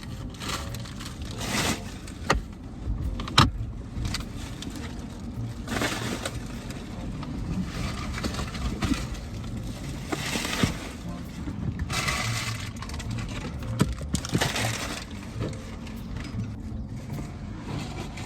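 Short rustling bursts every few seconds and a few sharp clicks or knocks, the loudest about three and a half seconds in, over a steady low rumble.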